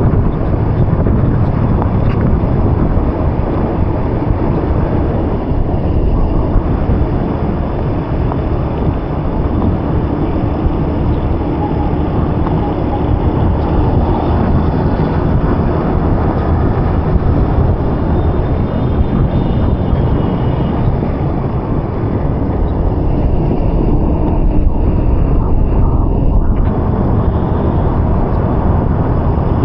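Loud, steady vehicle running noise with wind buffeting the microphone, recorded while travelling through the rain.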